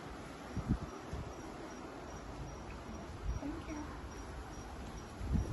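A cricket chirping, a thin high chirp repeating evenly about two to three times a second, over low rumbling noise.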